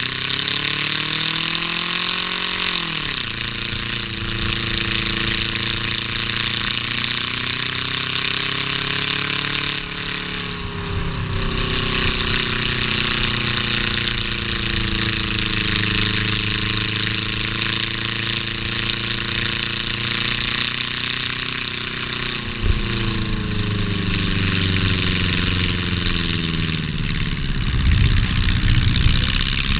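A race car's engine heard from inside its stripped cabin, revving under throttle as it laps. Its pitch climbs, drops sharply about three seconds in, then swells and sags again and again, over a loud hiss of wind and road noise. A single sharp knock comes a little after twenty-two seconds, and the rumble grows heavier near the end.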